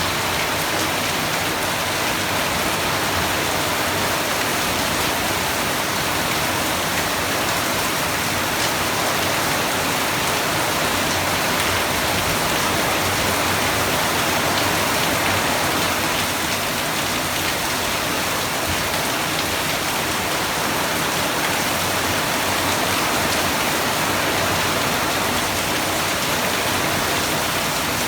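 Steady rain falling and pattering on surfaces, a dense even hiss with the close ticks of individual drops.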